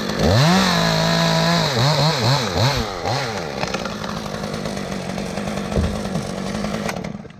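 Chainsaw revved to full throttle, cutting through a limb, then revved up and down several times before running on more steadily. The sound drops away about seven seconds in.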